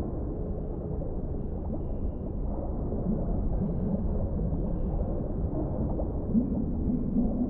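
Underwater ambience: a steady low rumble, with wavering low tones that come and go about three seconds in and again near the end.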